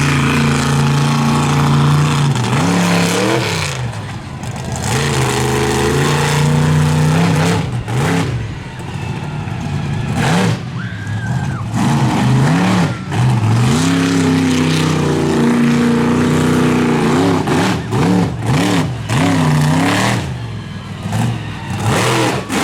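Monster truck engine revving hard, its pitch climbing and falling over and over, with the throttle chopped off and reapplied several times.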